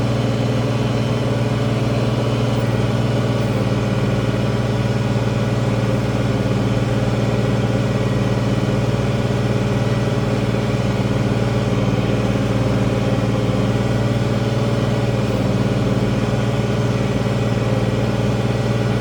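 International Harvester 1566 tractor's six-cylinder turbo diesel running steadily under load, pulling a field cultivator.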